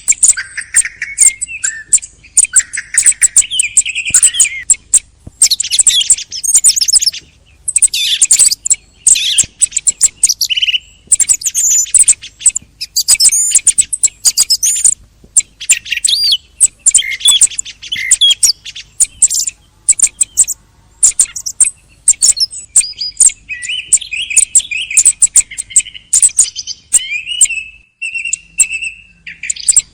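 Thrushes calling and singing: a dense, unbroken run of short high chirps and whistled phrases.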